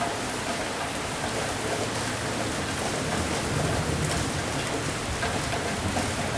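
Steady heavy rain, with a low rumble of thunder swelling a little about halfway through.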